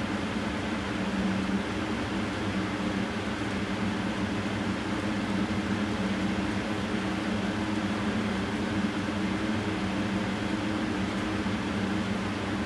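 Steady mechanical hum and hiss with a constant low drone, like a running motor or fan.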